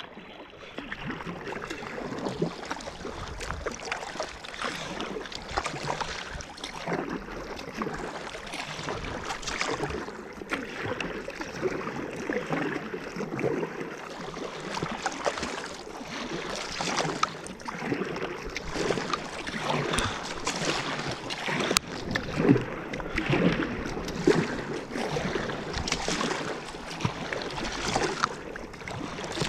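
Water splashing and lapping around a kayak, with irregular splashes from the paddle blades dipping in.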